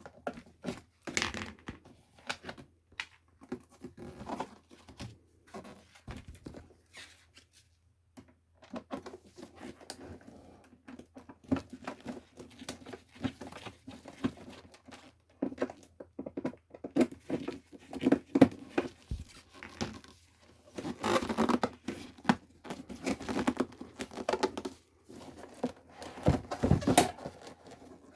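Hands working on a ceramic electric heater: irregular clicks, scrapes and rustling of plastic parts and wiring being handled, with a brief pause about a third of the way through and busier, louder handling near the end.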